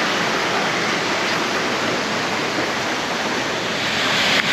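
Steady, loud rush of fast-flowing river water, with a brief break just before the end.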